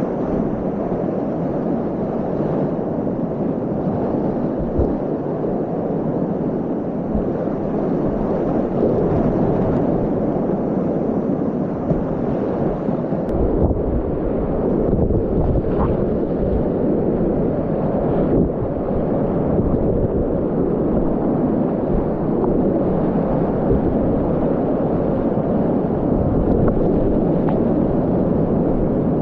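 Loud, steady rush of whitewater from a river's continuous Class 4 rapids.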